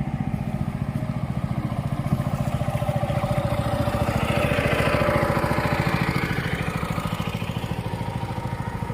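A small boat engine running steadily at an even speed, getting a little louder about halfway through.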